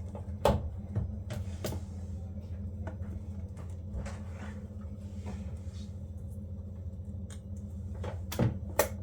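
A steady low mechanical hum with several sharp knocks and clatters, the loudest about half a second in and twice near the end.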